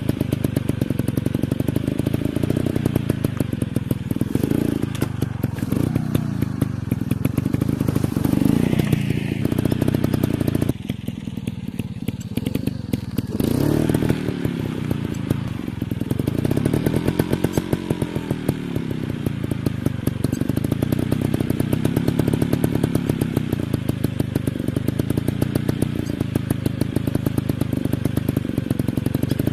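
Dirt bike engine running with a rapid, steady pulsing, its revs rising and falling several times over the middle of the stretch.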